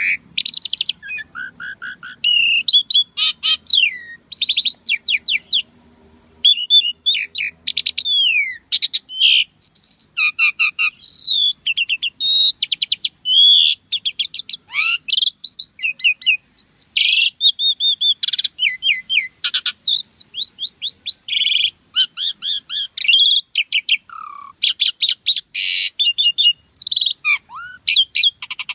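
Asian pied starling (jalak suren) singing at length: a fast, varied stream of gliding whistles, rattling clicks and chattering phrases with hardly a pause.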